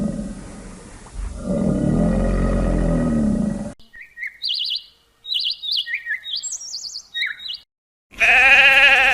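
A deep animal roar for the first few seconds, then a small bird chirping in quick, short high notes, then one loud wavering bleat near the end.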